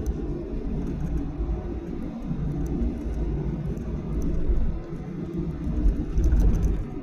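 Cabin noise inside a Boeing 737-800 airliner: a loud, uneven low rumble from the engines and airframe in motion, with a few faint clicks.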